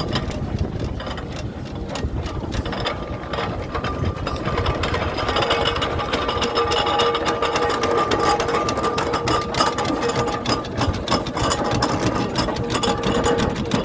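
Engine running with a rapid, regular clatter, joined a few seconds in by steady high tones.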